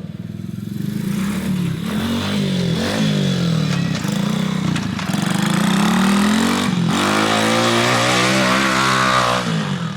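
125cc four-stroke pit bike engine revving hard up through the gears. The pitch climbs and falls back several times, with a brief break about seven seconds in, and it is loudest in the last few seconds before it falls away at the end.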